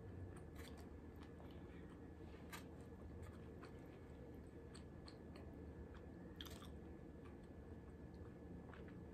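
Faint close-miked chewing of food with the mouth closed, with a few sharp clicks along the way, over a steady low room hum.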